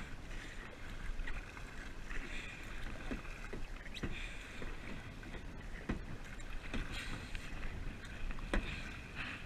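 Kayak paddling: paddle strokes splashing in the water about every two seconds, with a few sharp knocks between strokes.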